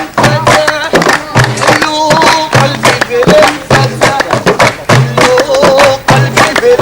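Moroccan folk song sung by voices over a fast, steady percussion beat.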